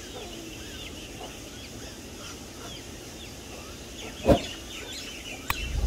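Many short high bird chirps going on steadily, with one sudden loud thump about four seconds in and a fainter click shortly after.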